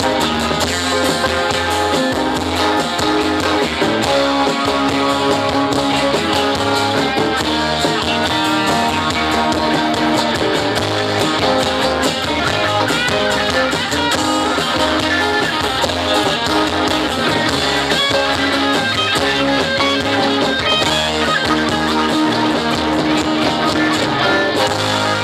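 Live instrumental band music led by guitar, playing steadily.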